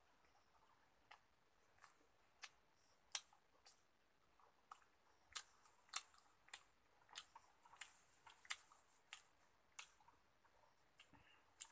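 Close-up eating sounds: chewing a mouthful of rice and curry, heard as a run of sharp, wet mouth clicks and smacks at about one or two a second, loudest through the middle.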